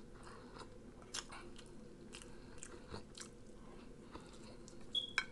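Faint close-miked eating sounds: a man chewing a spoonful of food, with soft, scattered mouth clicks. A brief high tone and a couple of sharper clicks come near the end.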